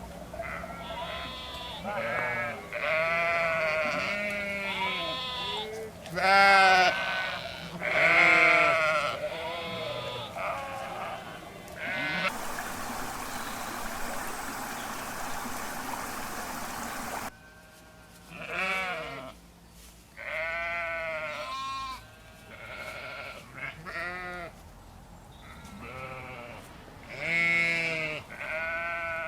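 Sheep bleating: many short, wavering calls, several at once, with a few seconds of steady hiss in the middle.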